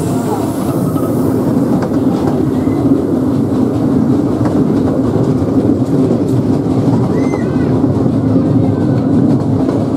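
Steady rumble and rattle of a narrow-gauge steam train's carriage wheels rolling over the rails, heard from an open carriage.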